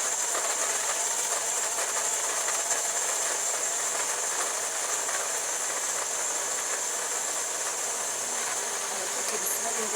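Steady hiss of food cooking in a pot or pan on the stove, even throughout.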